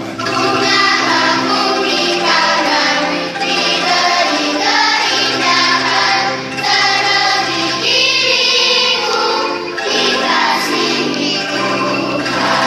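Children's choir singing a song in held, sustained notes, accompanied by angklung.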